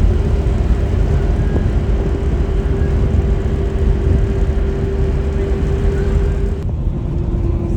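A vehicle engine running steadily: a low rumble with a continuous hum. The hum drops slightly in pitch about seven seconds in.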